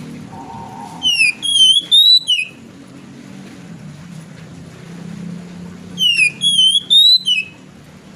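Oriental magpie-robin (kacer) singing inside its covered cage: two identical short phrases of quick, sliding whistled notes, about five seconds apart, over a steady low hum.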